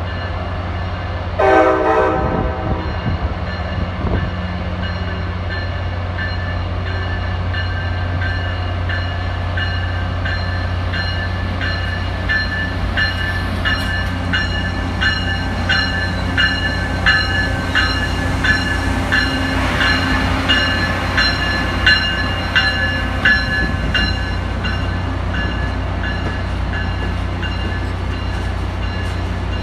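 Amtrak ACS-64 electric locomotive gives one short horn blast about two seconds in, then rolls past with its passenger cars. Its wheels click evenly over the rail joints for much of the passage, over a steady low hum.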